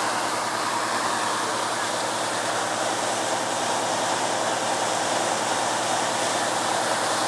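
Steady, loud rush of water gushing from a broken fire hydrant.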